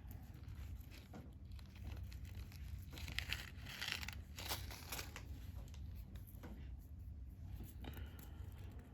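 Small plastic bead bags crinkling and rustling as they are handled, with the crackling densest about three to five seconds in.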